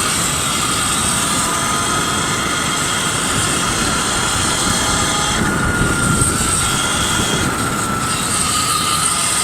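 Electric bike under way: steady wind rush over the microphone with a motor whine that drifts slowly down in pitch.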